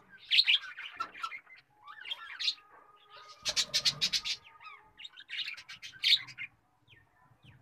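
Birds chirping and calling in short overlapping bursts, with a fast rattling trill about halfway through.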